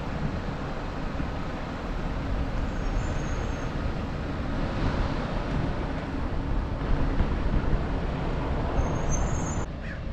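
Steady low rumble of road traffic at a train station, with no train sounding yet.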